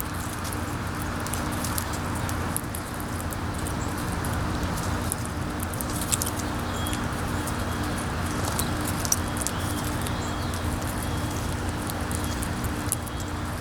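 Steady wind blowing over the microphone, with scattered light clicks and ticks from squirrels and birds picking at seed, over a faint low hum.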